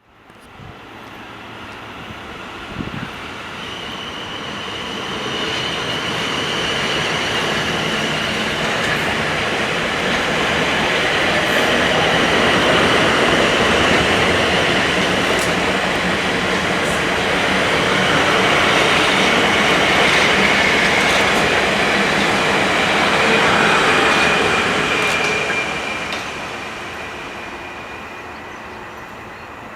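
A train going by on the line. It grows louder over several seconds, stays loud for about twenty seconds with a steady high whine over the rumble and wheel noise, then fades away.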